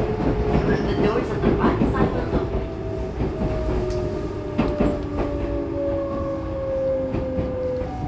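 Interior running sound of a Tobu 20400 series motor car. The Toyo GTO-VVVF inverter and traction motors whine in two tones that fall steadily in pitch as the train slows, over wheel noise and rail-joint clicks that thin out after the first few seconds.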